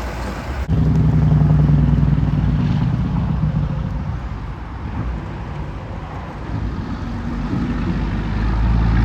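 A passing truck's engine running. It comes in abruptly about a second in and is loudest just after, then fades. Another vehicle grows louder near the end.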